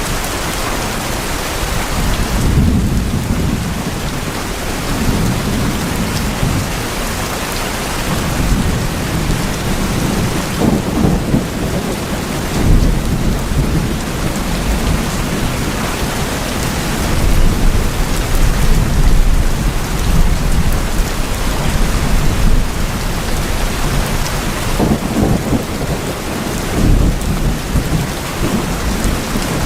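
Steady heavy rain falling on tin roofs, with low rolls of thunder that swell and fade several times.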